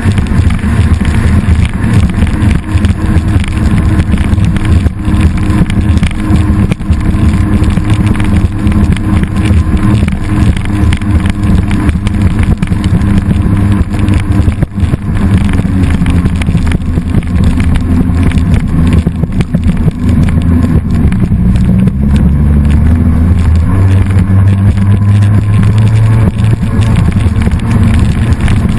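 An engine running continuously under power, close to the microphone, its pitch shifting up and down several times in the second half as the throttle changes.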